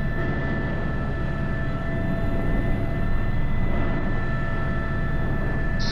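Airbus H125 single-turbine helicopter in flight, heard from the cockpit: a steady rotor and turbine drone with a constant whine of several held tones, during a fast descent at about 60 knots.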